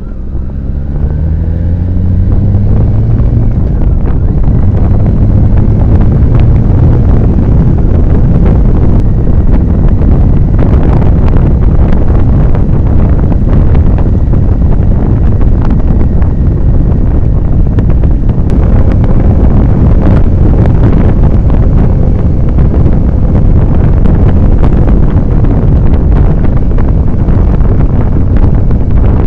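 Motorcycle engine pulling away, its pitch rising over the first couple of seconds. It is then buried under heavy wind noise on the microphone at road speed.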